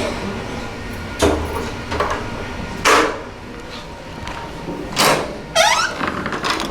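Creaky doors with Sargent door closers and mortise locks being worked: three short noisy door sounds about a second and a half apart, then a creak with a pitch that slides up near the end.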